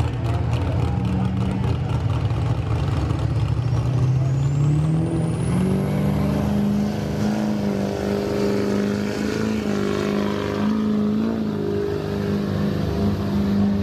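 Diesel pickup truck engine under full load in a truck pull: the revs climb over the first few seconds with a rising turbocharger whistle, then hold steady at high revs.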